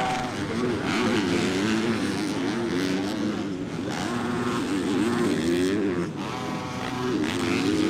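Motocross dirt bike engine revving up and down over and over, the pitch rising and falling with the throttle as the bike races around the track.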